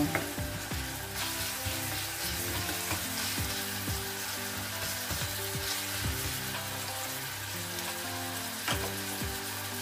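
Chopped onion and garlic frying in olive oil in a stainless steel saucepan: a steady sizzle, with a spoon stirring through the pan in the first half and a single sharp knock near the end.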